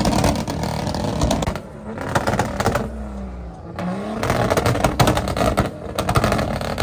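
A car engine revving in repeated bursts, with rapid exhaust pops and crackles on each rev, in about four bursts.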